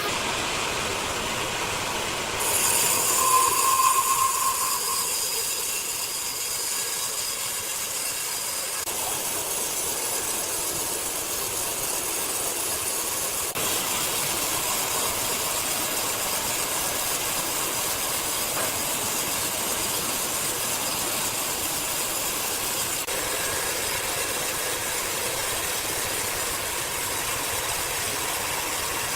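Sawmill band saw cutting through a large cedar log: a steady high-pitched hiss with a faint whine, and a brief louder tone about three seconds in.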